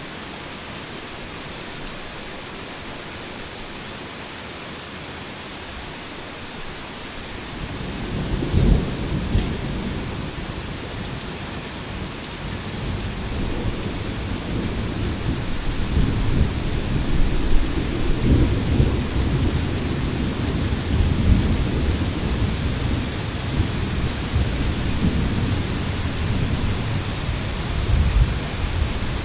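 Heavy rain falling steadily in a thunderstorm. About eight seconds in, thunder breaks with a loud clap, then rumbles on low and long through the rest.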